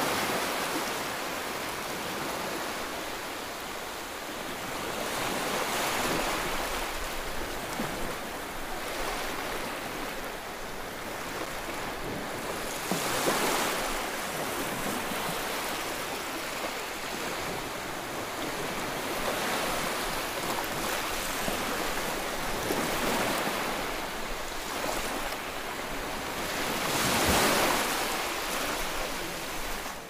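Steady rushing of a shallow stream running over rocks. It swells louder several times, most strongly near the middle and near the end.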